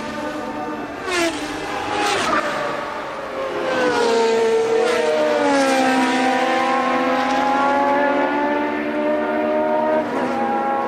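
1982 Formula One cars running at high revs, several passing one after another, the engine pitch sweeping up and falling away as each goes by, with a long falling note in the middle.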